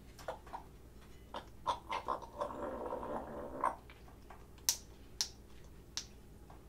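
Parrot making a series of sharp, irregular clicks, with a short scratchy noise lasting about a second in the middle.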